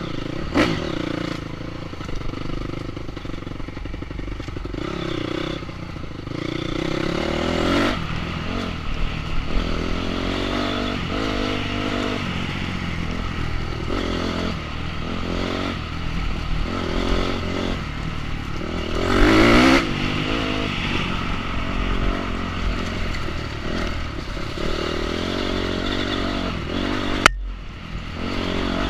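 Enduro motorcycle engine running as it is ridden off-road, its revs rising and falling, with the loudest rev about two-thirds of the way through. A sharp click near the end is followed by a brief drop in the engine sound.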